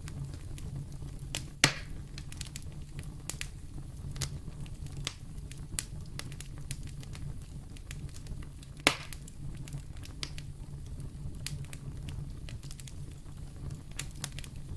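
Wood fire burning in a fireplace: a steady low rumble with scattered crackles, and two sharp louder pops, one about two seconds in and one about nine seconds in.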